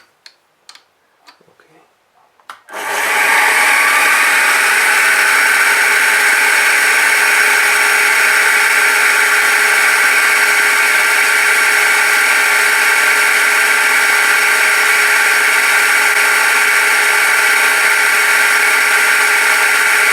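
A few light clicks, then about three seconds in a milling machine's motor starts, spins up with a short rising whine and runs steadily and loudly.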